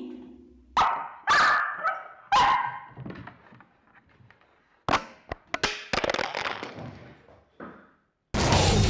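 A dog barks loudly a few times in quick succession, then sharp knocks and clatter follow from about five seconds in. Electric-guitar rock music cuts in near the end.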